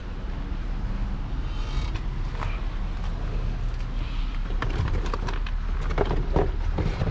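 A steady low vehicle hum, with a few short knocks and creaks in the second half.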